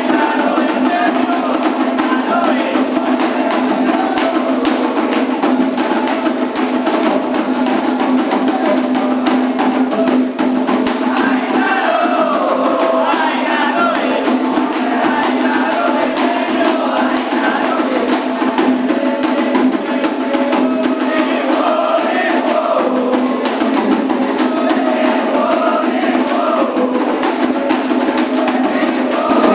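Candomblé ritual music: atabaque hand drums and percussion playing over a steady low hum, with chanted singing coming in strongly about eleven seconds in.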